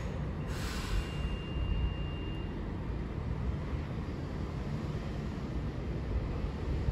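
Low, steady rumble of trains at a railway station, with a short hiss about a second in and a faint high whine over the first couple of seconds.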